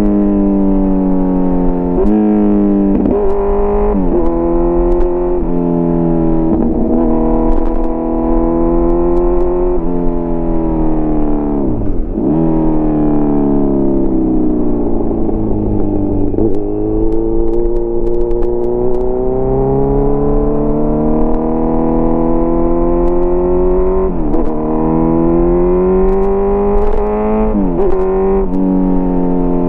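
Kawasaki Z900's inline-four engine through an SC-Project CRT slip-on exhaust, running with its note rising and falling and several quick dips in pitch. About twelve seconds in it falls sharply, then climbs steadily for several seconds.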